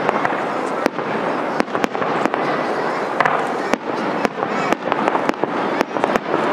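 Aerial firework shells bursting in quick succession: an irregular run of sharp bangs and cracks, several a second, over a steady background noise.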